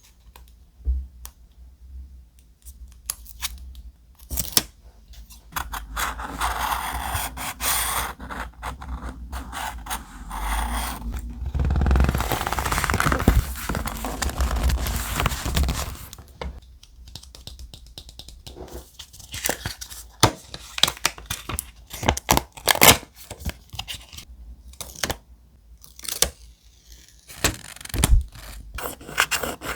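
Thick paper being handled and worked for a scrapbook page: scraping and rustling with many short taps and clicks, and two longer stretches of paper rustling or tearing through the middle.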